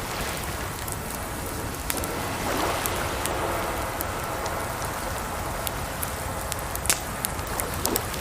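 Wood fire crackling, with frequent sharp pops (the loudest about seven seconds in), over a steady rush of water.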